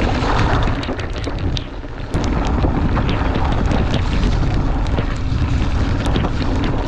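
Wind buffeting the camera microphone over a Cube Stereo 150 mountain bike rattling along a rough, wet track, with scattered knocks from the tyres and frame. The rumble eases briefly about one and a half seconds in.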